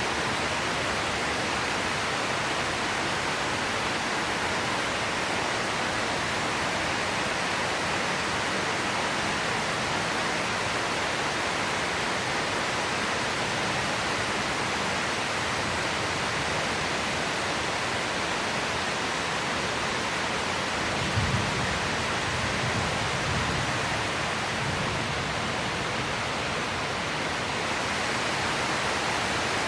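Steady hiss of heavy monsoon rain falling, even and unbroken, with a brief low thump about twenty seconds in.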